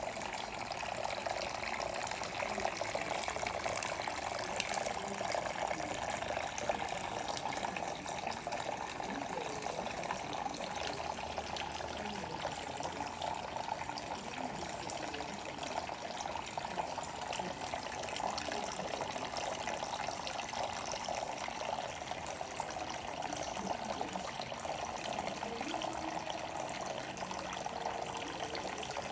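Fountain water splashing and running steadily.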